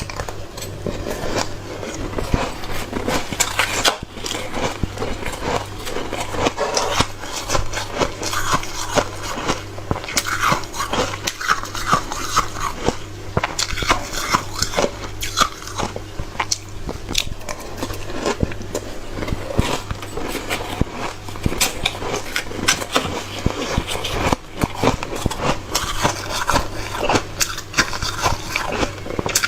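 Hard, frosty shaved ice being bitten and chewed, a dense, irregular run of crunches and crackles.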